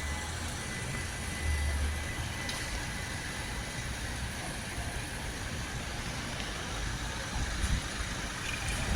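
Steady rumble and hiss of vehicle noise, with a faint high thin tone that fades out about two seconds in.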